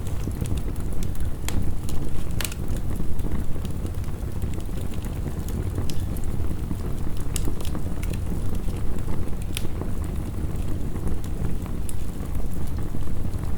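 Heavy rain with a steady deep rush, and a wood fire crackling with a few sharp pops.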